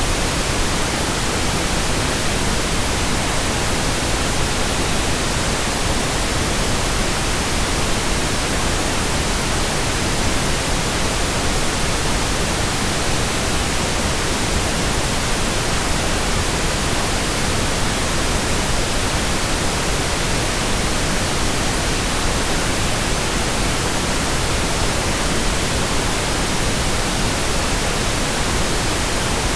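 Steady white noise: an even, unbroken hiss across the whole range of pitch, with no rhythm or change.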